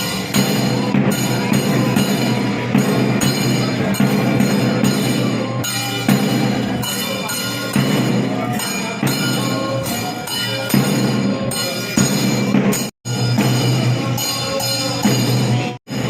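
Kerala temple ritual percussion: chenda drums with ringing cymbals played continuously in a dense rhythm, accompanying a Muthappan vellattam. The sound cuts out abruptly twice near the end.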